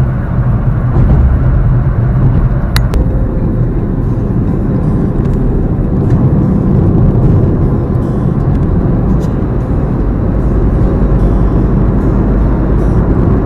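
Car driving at speed, heard from inside the cabin: a steady low rumble of engine and road noise, with one brief sharp click a little under three seconds in.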